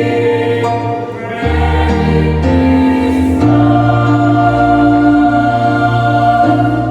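A choir sings the closing bars of a song. About halfway through, the singers settle on a final chord and hold it.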